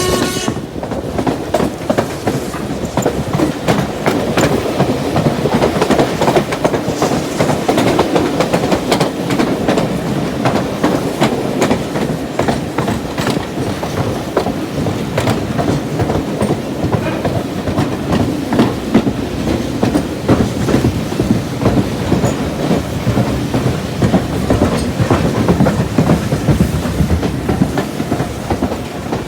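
Swanage Railway train running along the line, with a steady rumble of wheels on rail and a continual clickety-clack of the wheels passing over rail joints.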